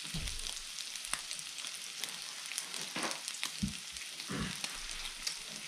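Makchang (intestine pieces) sizzling in a hot grill pan: a steady frying hiss with occasional sharp pops as the fatty pieces spit. A couple of dull thuds sound about midway.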